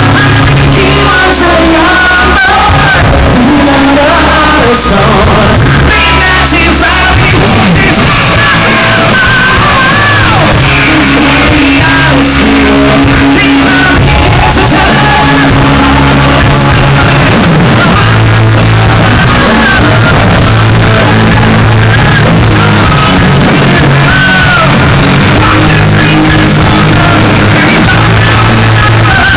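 Live rock band playing loudly, with a singer's voice over electric guitar, bass and drums, in a hall. The audience recording is overloaded and distorted.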